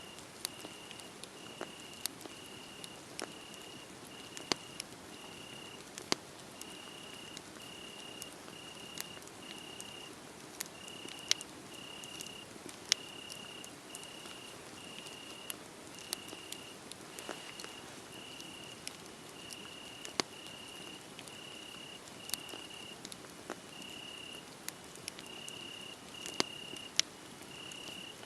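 Wood fire crackling, with scattered sharp pops over a soft steady hiss, while a cricket chirps on one high note, about one and a half chirps a second with a few brief pauses.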